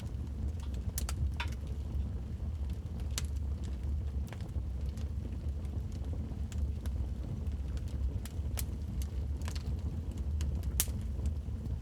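Wood fire in a fireplace crackling, with irregular sharp pops and snaps over a steady low rumble; the loudest pop comes near the end.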